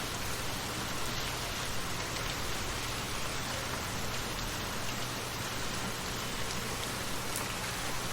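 Light rain falling steadily, an even hiss with a few scattered drop ticks.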